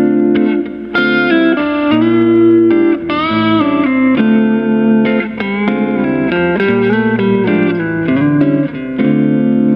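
Fender Telecaster played through a Cali 76 compressor pedal into a Two Rock EXO amp: a clean, even electric guitar line of single notes and short chords, with string bends about three seconds in.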